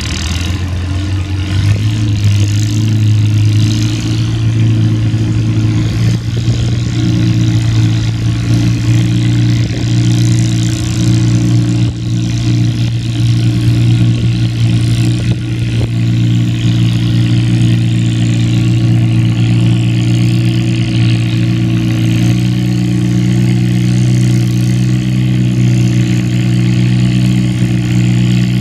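Antique farm tractor engine running loud and steady at one constant speed after a small rise in pitch about a second in, as when pulling a load.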